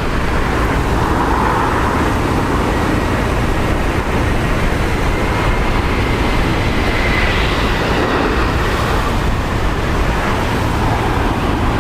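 Steady rushing of storm wind on the microphone, mixed with the jet engines of an Airbus A320 on final approach; a faint engine whine rises a little around the middle.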